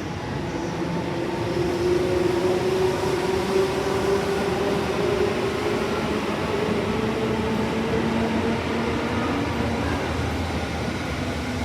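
A Tobu 10000 series electric train pulling out of a station. Its traction motors give a tone that rises gradually as it picks up speed, over the rumble of the wheels on the rails.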